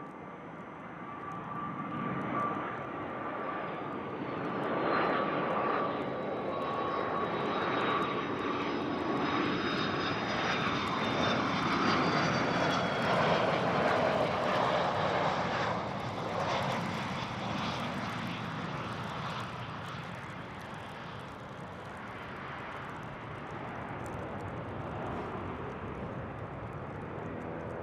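Business jet's engines passing along the runway: the engine noise builds, is loudest about halfway through and slowly fades, with high whining tones that slide down in pitch.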